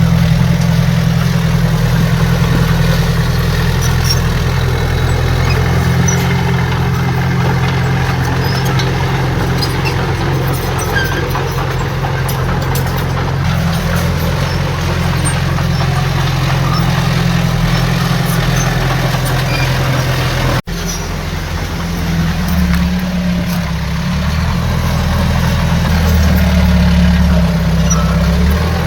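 Heavy diesel earthmoving machinery running steadily with a deep engine note. A brief break about two-thirds of the way through, after which the engine sound shifts.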